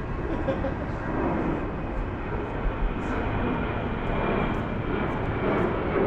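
Airplane flying overhead: a steady engine noise that grows slightly louder toward the end.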